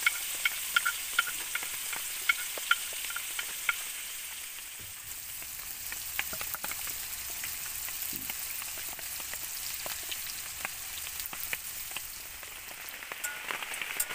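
Eggplant and chili sambal sizzling as it fries in a pan and is stirred. A run of sharp, ringing clinks sounds in the first few seconds, then the sizzle goes on with a few scattered clicks.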